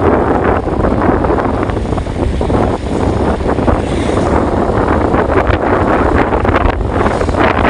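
Loud, steady wind buffeting the microphone, with a constant low rumble underneath.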